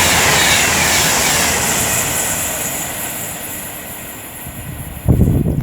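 Class 390 Pendolino electric train passing at speed, a loud rushing noise that fades steadily as it draws away. About five seconds in, a sudden low buffeting rumble breaks in.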